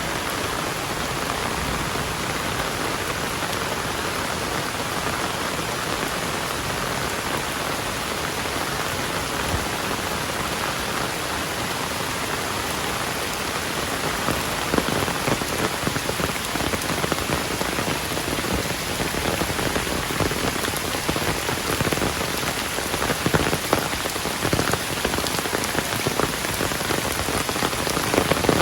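Heavy rain falling in a dense, steady hiss. From about halfway through, louder individual drops and splashes stand out against the rush of rain.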